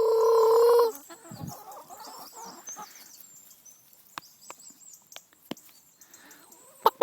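Chicken's long, steady drawn-out call that breaks off about a second in. Scattered sharp taps follow. Near the end comes a quick run of short clucks.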